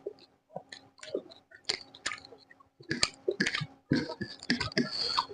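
Close-miked mukbang chewing: a person eating chicken, with short, irregular wet smacks and crunches, thickest about four seconds in.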